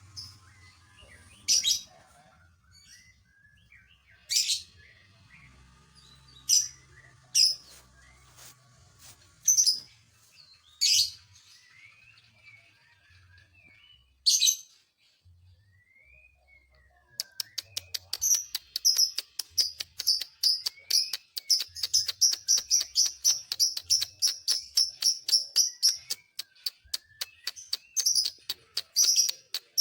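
Lovebird calling: seven separate sharp chirps a second or two apart, then about two thirds of the way in it breaks into a long, rapid string of short chirps, many a second, pausing only briefly near the end. This is the long chattering song that lovebird keepers call ngekek.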